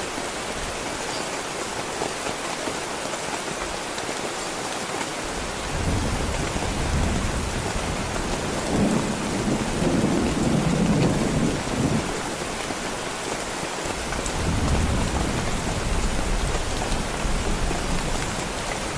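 Heavy rain falling steadily, with a long roll of thunder rumbling in about six seconds in and loudest around the middle, then a second, weaker rumble a few seconds later.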